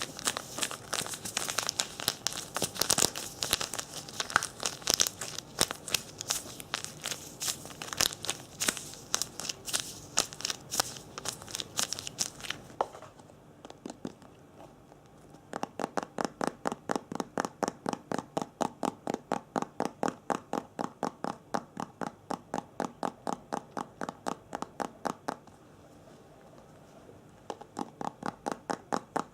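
Close-up ASMR trigger sounds: dense, irregular crinkling and crackling for about twelve seconds. After a short pause comes a steady, even rhythm of short strokes, about three a second, which stops briefly near the end and then starts again.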